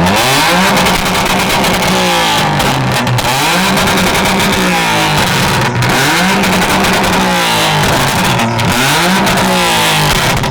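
A tuned car engine of about 700 horsepower revved hard again and again in a rev battle, about five times, the pitch climbing quickly, held at the top for a second or so, then dropping before the next rev.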